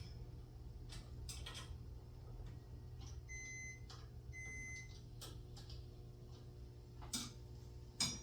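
Scattered light clicks and taps of a wrench working the set screws on a garage door torsion spring's winding cone, over a steady low hum. Two short electronic beeps about a second apart sound in the middle.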